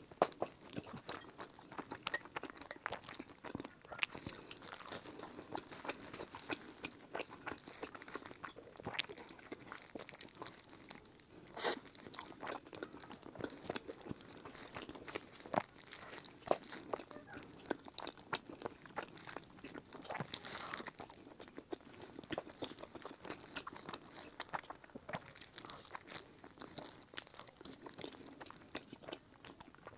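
Close-miked chewing and biting of soft pork floss pastries, a dense run of small clicks and crackles with a few sharper bites standing out.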